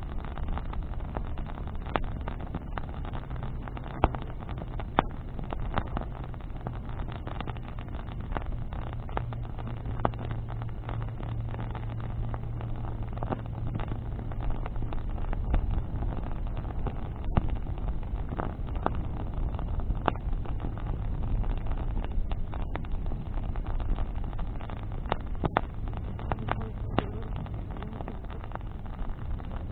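Bonfire of branches crackling, with frequent sharp pops and snaps of burning wood, the two loudest about four and five seconds in, over a low steady rumble and hum.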